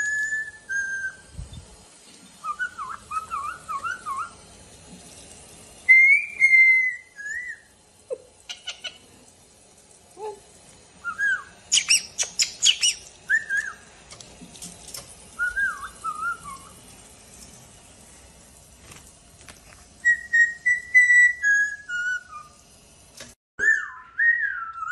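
Pet parrot whistling a string of short warbling whistle phrases with pauses between them, with a few harsher squawky chirps about halfway through.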